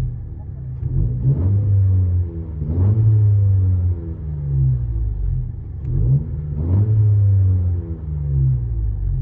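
A 2017 Honda Civic Si's 1.5-litre turbocharged four-cylinder engine, fitted with an aftermarket exhaust, heard from inside the cabin. The engine revs up sharply three times and its pitch falls back between the revs.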